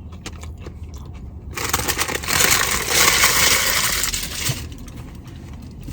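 Takeout food packaging crinkling and rustling for about three seconds as it is handled and opened, starting about a second and a half in.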